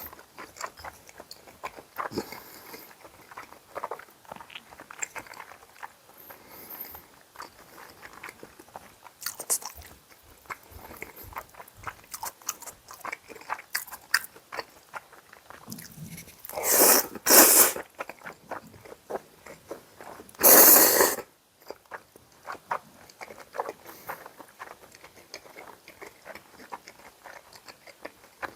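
Close-miked chewing and biting of pan-fried beef jeon and bibim cold noodles: soft wet clicks and crunches throughout, with two louder short noisy bursts about 17 seconds in and another about 21 seconds in.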